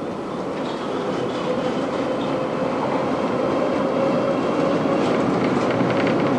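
Tram running along the track, getting steadily louder, with a steady hum and clattering wheel clicks over the rails about a second in and again near the end.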